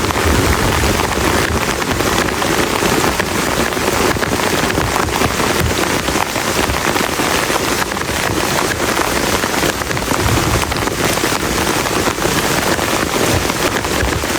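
Heavy rain falling steadily on a plastic tarp, a dense, unbroken patter of drops.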